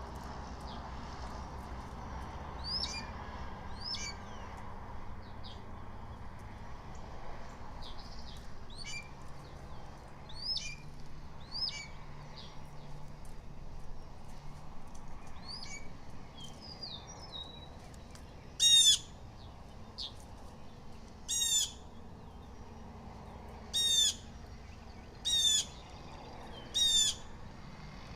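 Blue jays giving harsh mobbing calls at the hawks' nest: fainter downslurred calls through the first half, then five loud harsh calls about two seconds apart in the last third.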